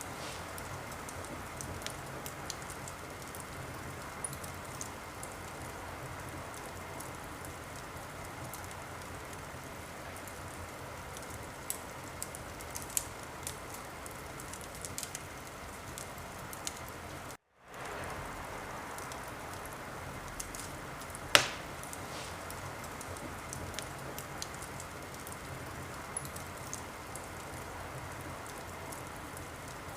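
Wood fire crackling in a fireplace: a steady hiss with scattered small pops and snaps, and one loud pop about two-thirds of the way through. The sound drops out completely for a moment a little past halfway.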